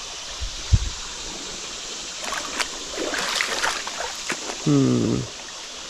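Flood-swollen creek water running steadily, with a thump just under a second in, scattered splashes and knocks in the middle, and a short voiced hum near the end.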